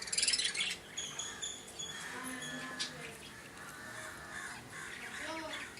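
Lovebirds calling: a loud harsh screech at the start, then short shrill chirps and squawks.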